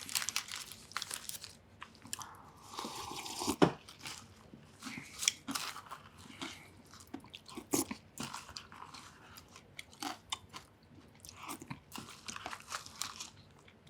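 Close-miked eating sounds: a person chewing and biting food, with irregular wet clicks and crackles.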